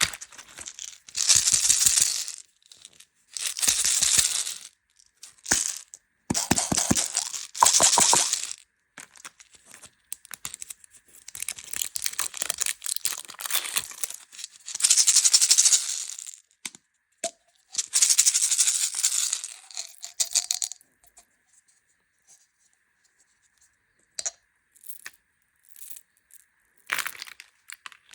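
Candy packaging being handled: plastic wrappers crinkling and sweets rattling, in repeated bursts of a second or two each. The bursts thin out to a few short ones near the end.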